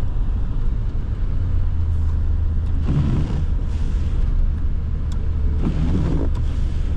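Truck driving on a snowy road, heard from inside the cab: a steady low engine and road rumble.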